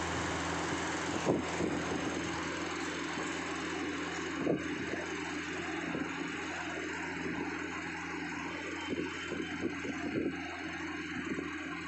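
A steady low mechanical hum, like a motor or fan running, with a few short knocks: one about a second in, one near the middle, and several lighter ones near the end.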